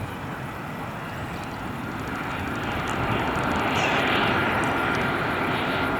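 Airliner engines growing steadily louder as the aircraft comes closer, with a thin high whine over the rush.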